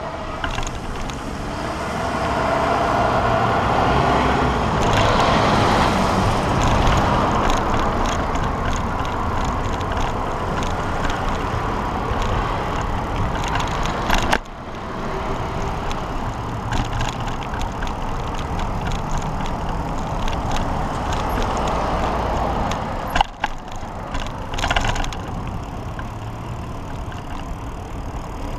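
Road traffic going by, heard from a moving bicycle over a steady rush of wind and road noise, swelling as vehicles pass. There are a couple of sharp knocks, one about halfway through and one later.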